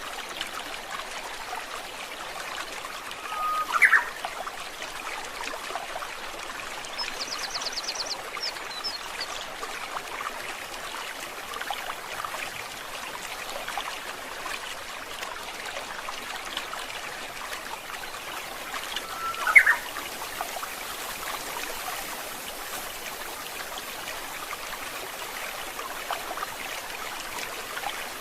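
Steady trickle of a flowing stream. A bird gives a short, sharply rising call twice, about four seconds in and again near twenty seconds. A brief fast, high trill comes around seven seconds in.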